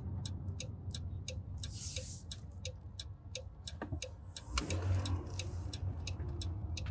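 Car turn-signal indicator ticking evenly, about three clicks a second, over the low hum of the car's cabin.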